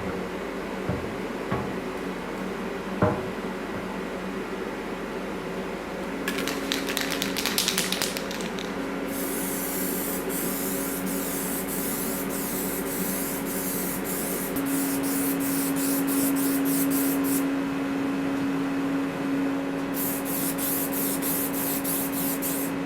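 Spraying hiss in repeated bursts of short pulses from about six seconds in, pausing briefly and starting again near the end, over a steady low drone. A few light knocks come in the first few seconds.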